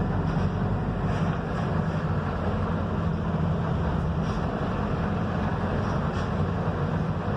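Mercedes-Benz OF-1721 bus engine running steadily as the bus travels, a constant low hum with road and wind noise over it.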